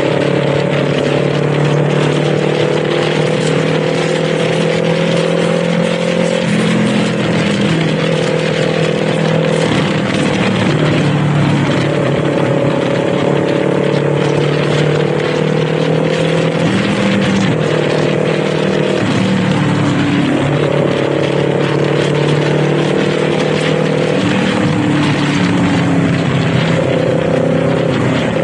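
Kawasaki Z400's parallel-twin engine running under way, its pitch holding steady and then stepping down and back up several times as the rider changes gear or eases the throttle, over a steady rushing hiss.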